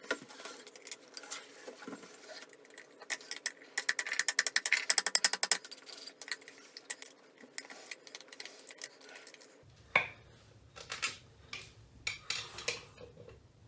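Ratchet wrench backing the nut off a toilet's closet bolt: a fast, even run of ratchet clicks lasting about two and a half seconds, starting about three seconds in, among scattered light metal clicks and clinks.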